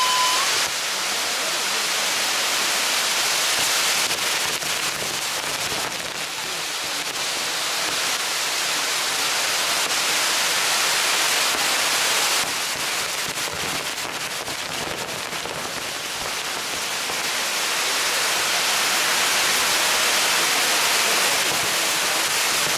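Maltese ground fireworks (nar tal-art): many firework wheels spinning on a tall frame, burning with a steady rushing hiss that swells and eases. A whistling tone dies away right at the start.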